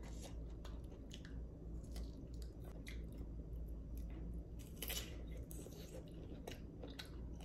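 Mouth chewing raw cucumber, with short crisp crunches here and there and a louder crunch about five seconds in.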